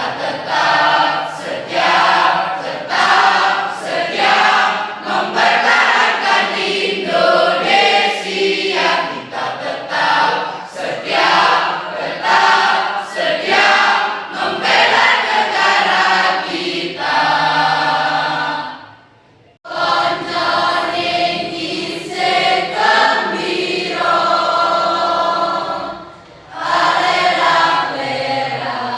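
High-school class choir singing, with a short break between phrases about two-thirds of the way through and a brief dip near the end.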